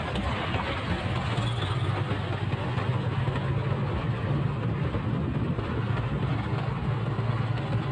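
Motorcycle engine running steadily with a low hum, under a constant hiss.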